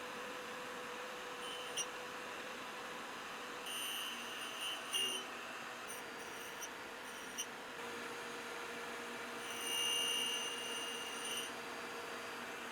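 Clarkson tool and cutter grinder running with a steady hum and hiss, its wheel grinding a hardened steel hex broach. Twice the wheel bites and adds a high-pitched whine that lasts a second or two.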